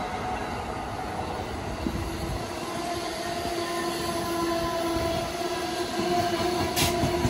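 Train running on the Northeast Corridor: a steady rail rumble, joined about two seconds in by a steady humming tone that holds to the end, with a brief high hiss near the end.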